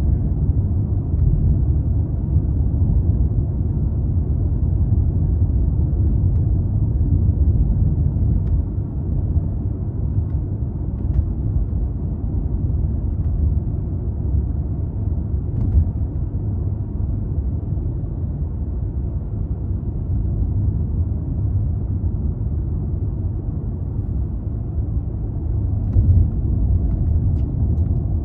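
A 200-series Toyota Crown Athlete's 2.5 L V6 car cruising at steady speed: a continuous low rumble of road and engine noise that holds even throughout, with a few faint ticks.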